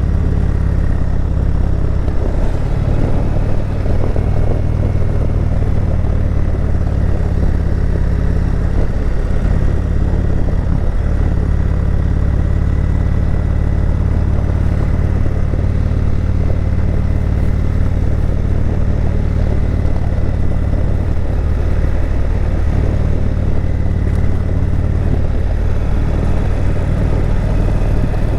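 Indian Chieftain Dark Horse motorcycle engine running at a steady, even speed while riding, with a constant low drone and road noise and no revving.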